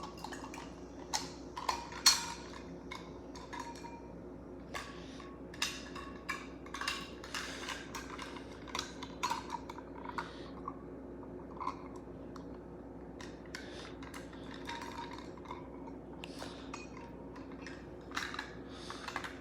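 Scattered light clinks and knocks of a Cars Color Changers toy car being handled and dipped in a dish of water, over a faint steady hum.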